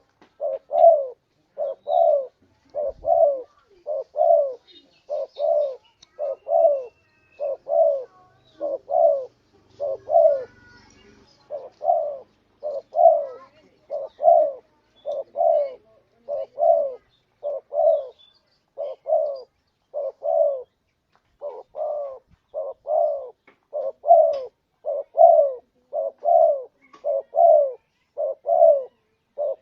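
Spotted dove cooing, its short notes repeated about once a second without a break, each note sliding down in pitch.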